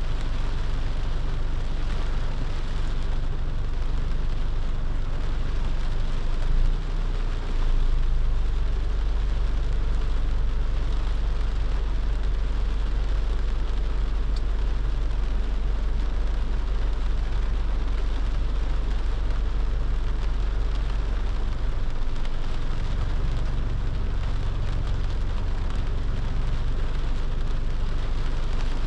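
Rain hissing steadily on a moving car, over the low rumble of the car's engine and tyres, which grows heavier about eight seconds in.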